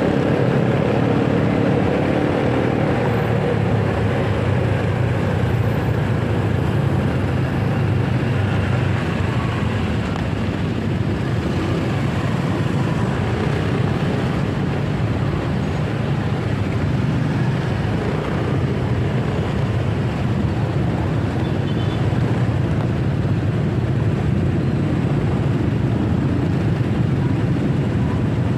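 Motorcycle running steadily on the road, a constant engine hum under continuous road and traffic noise.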